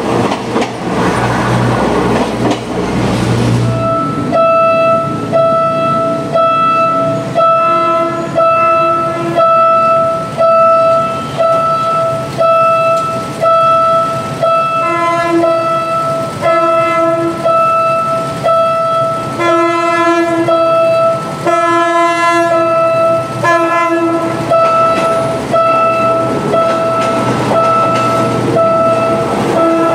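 A train passing with a loud rumble and wheel clatter for the first few seconds. Then an evenly repeating pitched warning tone, pulsing a little more than once a second, runs on to the end, with a lower tone joining it at times.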